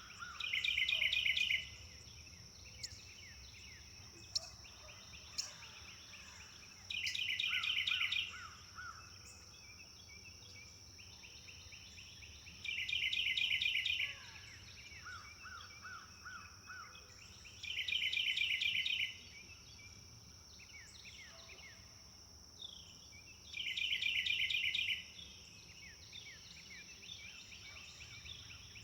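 A songbird repeats the same short, loud trilled phrase about every five to six seconds, five times. A second bird answers with a few lower repeated notes, against a steady high-pitched insect drone.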